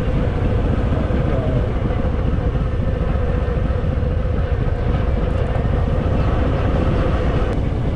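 Harley-Davidson Fat Boy's air-cooled V-twin engine running steadily.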